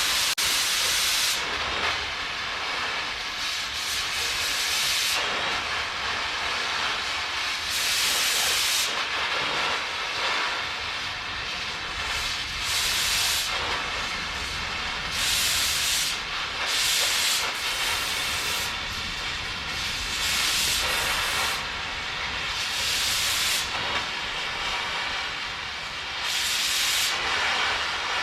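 Metal-cutting torch hissing steadily as it cuts steel, swelling into louder, sharper hissing every few seconds.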